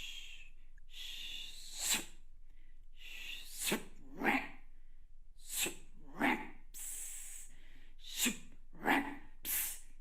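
A person making a string of vocal sound effects with the mouth: hissing and shushing stretches alternate with about eight short, sharp bursts, several sliding down in pitch, as sounds from the book's sound score are performed one after another.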